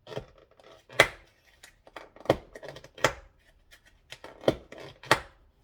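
Kitchen containers and dishes being handled and set down: a run of sharp clacks and knocks, about five loud ones a second or so apart, with lighter clicks in between.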